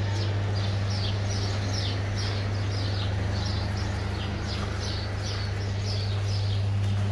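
Small birds chirping over and over, short falling chirps about two or three a second, over a steady low hum.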